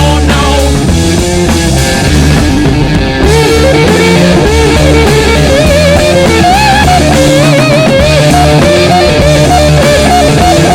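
Loud rock music with electric guitar, bass and drums, the lead guitar bending and sliding through a melody.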